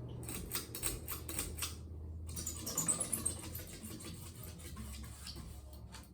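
Harbor Breeze Crosswinds 52-inch ceiling fan running with a low hum and a rapid clicking, about six clicks a second, that turns into a louder rattling scrape about three seconds in. This is the noise the owner says is getting louder.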